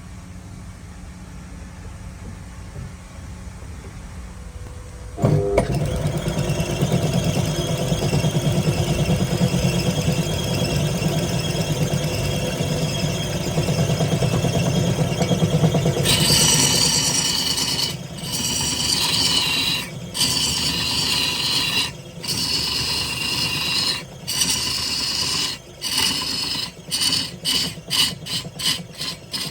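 Wood lathe running with a tool cutting into the spinning wood. A low motor hum comes first; about five seconds in a loud cutting noise starts suddenly. Later it turns to a brighter hiss that breaks off about every two seconds, and faster near the end, as the tool is lifted and set back on the wood.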